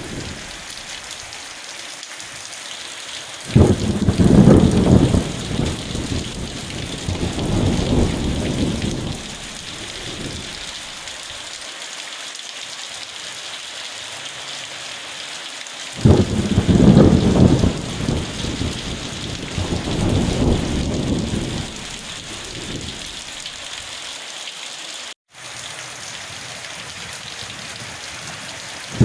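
Steady rain falling, with thunder rolling in twice: each rumble starts suddenly, about 3.5 seconds in and again about 16 seconds in, and rolls on for five or six seconds. The sound cuts out for an instant about 25 seconds in.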